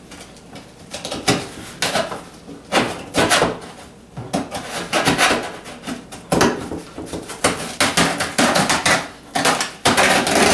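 Cardboard shipping box being handled: irregular knocks, thumps and scraping sounds, a few to each second.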